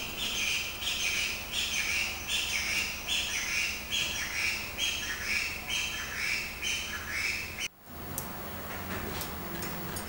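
A bird calls loudly over and over, about three calls every two seconds. Each call is a short high note that drops slightly in pitch. The calls stop abruptly about three-quarters of the way through.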